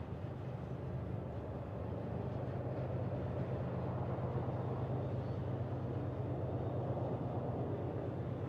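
A consist of BNSF diesel-electric locomotives pulling an intermodal train, heard from a distance: a steady low engine drone over the rumble of the train rolling, growing a little louder a couple of seconds in.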